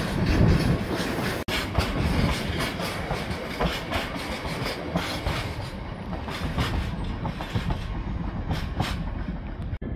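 Freight train hopper wagons rolling past close by, their wheels knocking over the track in a continuous clickety-clack with a rumble beneath. The sound briefly cuts out about a second and a half in and again near the end.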